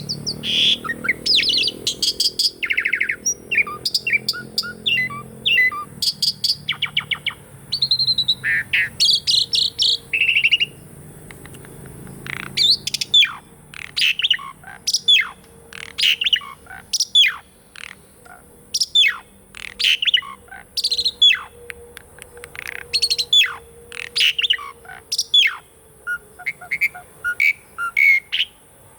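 Asian pied starling (jalak suren) singing: a varied run of whistles, rapid trills and harsh buzzy notes, then from about halfway through a long series of sharp, falling calls repeated about one or two a second.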